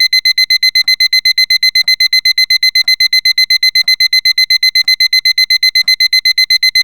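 Electronic alarm-clock beeping: a rapid, steady train of high-pitched beeps, about eight a second.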